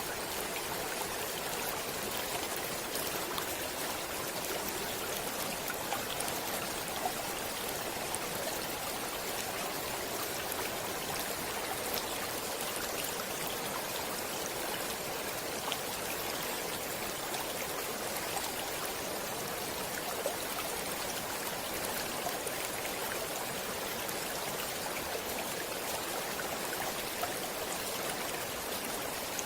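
Stream water flowing steadily over rocks, an even rush with small splashes and drips here and there.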